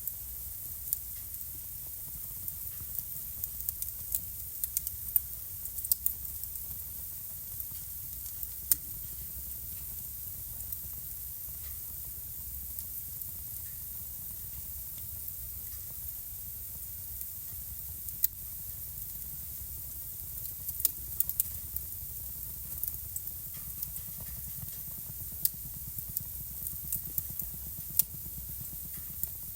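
Wood fire burning in a fireplace: irregular sharp crackles and pops, a few much louder than the rest, over a steady soft hiss and a low rumble.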